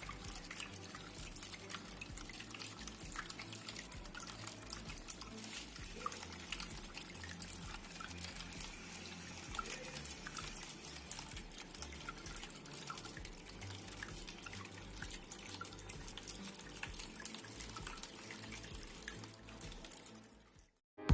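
Water trickling and dripping in a small cement tabletop waterfall fountain: a faint, steady splashing with many small drips. It cuts off suddenly just before the end.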